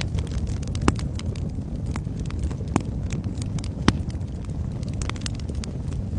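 Wood fire crackling in a fireplace: a steady low rumble of flames with irregular sharp pops and snaps, the loudest about a second in and near four seconds.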